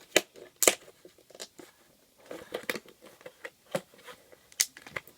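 Plastic slime containers being handled and moved about on a surface: scattered light clicks and knocks with brief rustling.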